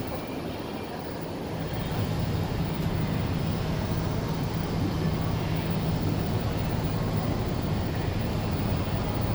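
Steady low mechanical drone under a rushing noise, aboard a cruise ship underway. It grows a little louder about a second and a half in and then holds steady.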